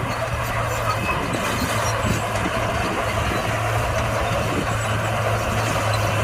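Komatsu D41P crawler bulldozer working, its diesel engine running steadily with a constant low drone under the noise of the machine.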